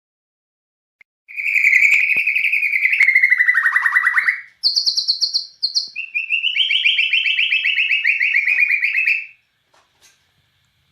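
White-rumped shama (Bornean murai batu) singing in fast rapid-fire trills, the 'nembak' cililin-style phrases: a long rattling run that drops in pitch at its end, a short higher run, then another long run.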